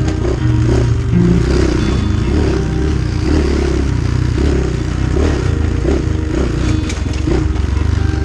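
Engine of a Chinese 250cc dirt bike running under riding load, its pitch shifting with the throttle.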